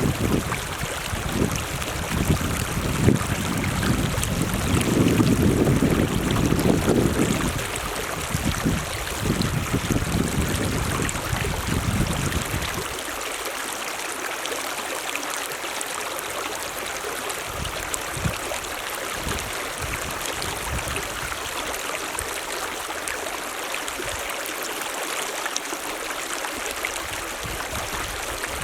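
Mountain stream running steadily. Gusts of wind rumble on the microphone for about the first twelve seconds, then drop away.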